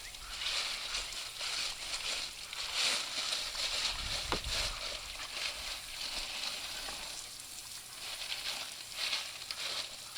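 Garden hose spraying water over lava rock on a rinsing screen, a hiss that swells and fades unevenly as the spray moves across the rock.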